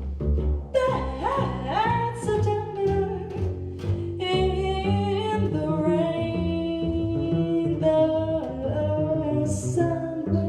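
Jazz voice sliding through long held notes over a walking line plucked on an upright double bass, which changes note about twice a second.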